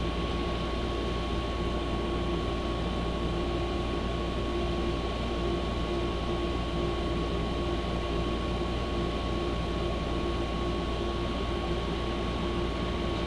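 A steady machine-like hum, unchanging throughout, with a low drone and a couple of steady tones running through it.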